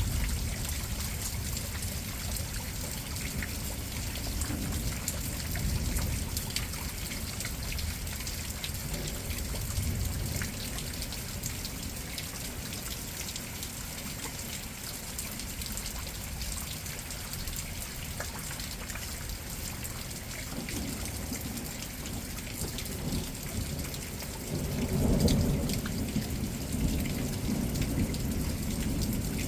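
Steady rain falling with rolling thunder, the low rumble coming and going and swelling loudest near the end.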